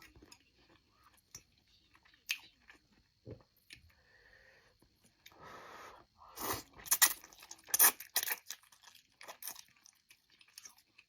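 A person chewing food close to the microphone, with wet crunchy bites and mouth clicks, growing into a run of louder crunching about two-thirds of the way through.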